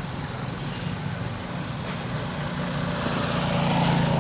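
A motor vehicle engine running, growing louder towards the end as if it passes close by.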